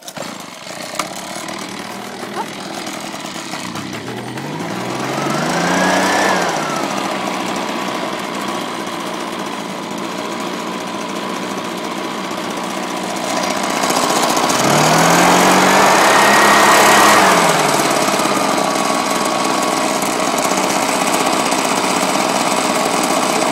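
Husqvarna 130BT backpack leaf blower's small two-stroke engine, cold-started on choke without priming, catching and running steadily. It revs up twice, briefly about four seconds in and for several seconds about fourteen seconds in, then settles back each time.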